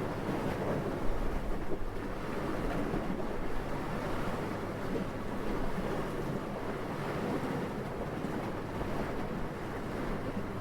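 Steady wind, a soft rushing noise that swells and eases a little, with a couple of brief louder gusts about a second in.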